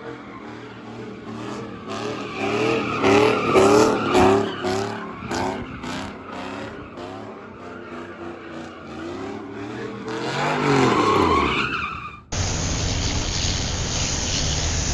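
Loud truck exhaust revved in quick repeated blips, each a rise and fall in pitch, with sharp crackles, then one longer rev that rises and falls. About twelve seconds in it cuts abruptly to a steady rushing rumble.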